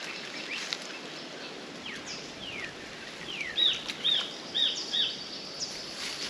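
Bird calling: a few quick falling whistles, then four arched notes in quick succession, over a steady outdoor background hiss.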